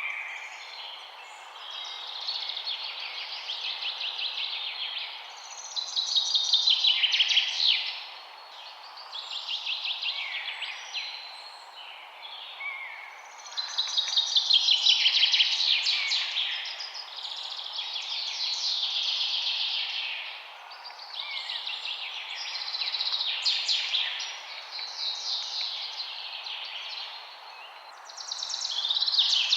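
Songbirds singing: a string of rapid trilled songs, each a second or two long and many falling in pitch, coming one after another every few seconds over a steady background hiss.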